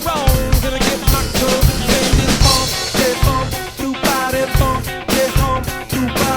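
Drum kit played in a busy beat with kick, snare and rimshot hits, over music carrying a sliding, bending lead melody.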